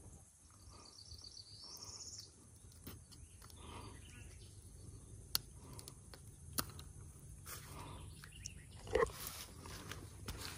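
A bird sings a rapid trill of evenly repeated high notes that climbs in pitch at its end, about half a second to two seconds in. Faint clicks follow, then a brief rustle about nine seconds in.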